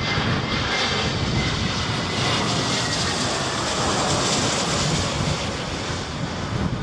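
Jet airliner engines running, a steady rush of noise with a faint high whine that fades about three seconds in.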